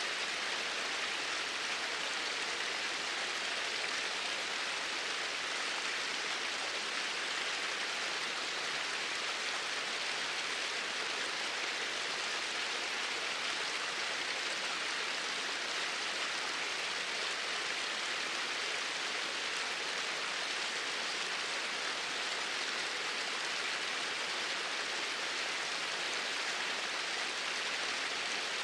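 Flowing water: a steady, even rush of a stream, unchanging throughout.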